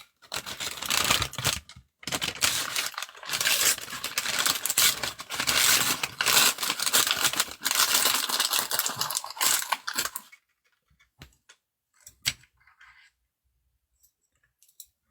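Plastic wrapping crinkling and tearing for about ten seconds as a naengmyeon container is unwrapped, then a few light clicks.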